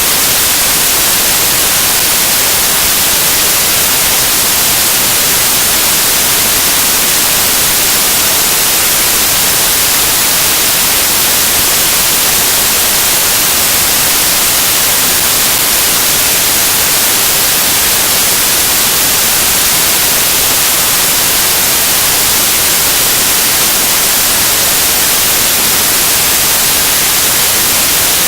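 Loud, steady static hiss, brightest in the high frequencies, with nothing else audible.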